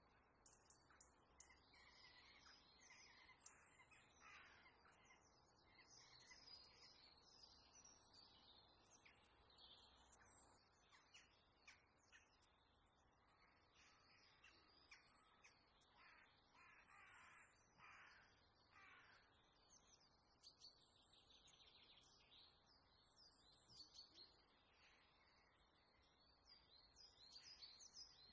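Faint birds chirping and calling throughout, many short whistles and chirps overlapping.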